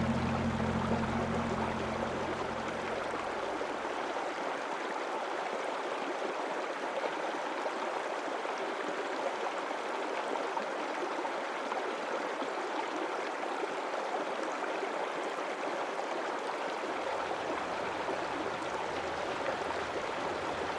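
Creek water rushing over rock, a steady wash of noise. A low held tone fades out over the first few seconds.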